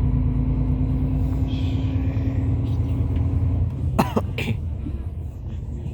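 Hyundai Universe coach's diesel engine and road rumble heard from inside the cabin, a steady drone that eases off about three and a half seconds in as the bus lifts off the throttle. About four seconds in, a person coughs twice.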